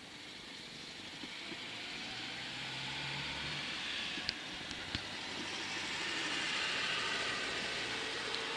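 A distant vehicle passing: a rush of noise that slowly swells to its loudest about seven seconds in. Two faint clicks come in the middle.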